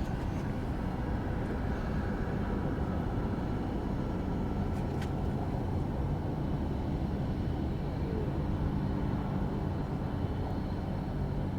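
Jet aircraft engines running on the airfield, a steady rumble with a faint thin whine for a few seconds in the first half.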